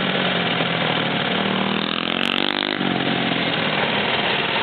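Small minibike engines running steadily, with a louder engine note for about a second near the middle.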